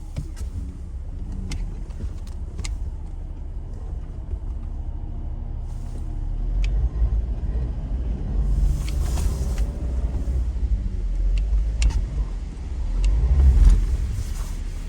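Vehicle engine running with a steady low rumble that gets louder about halfway through and again near the end, with a few sharp clicks over it.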